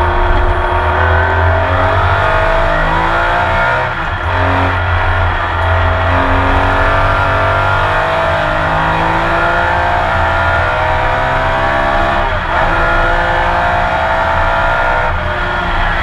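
Porsche 911 RSR flat-six racing engine under hard acceleration, heard from on board, its pitch climbing steadily through the gears. A brief break at a gear change comes about four seconds in and another a little past twelve seconds, each followed by a fresh climb.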